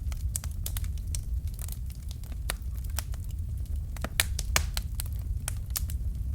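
Wood fire crackling, with irregular sharp pops and snaps over a steady low rumble of the flames; a couple of louder pops about four seconds in.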